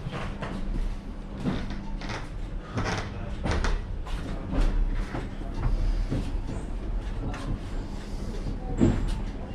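Old Soviet elektrichka electric commuter train carriage rattling and knocking irregularly over a steady low hum and rumble.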